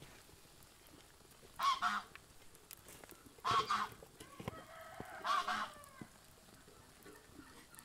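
A farmyard bird calls three times, each call short and loud, about two seconds apart. A soft knock comes about halfway through, as a glass lid is set on the pot of rice.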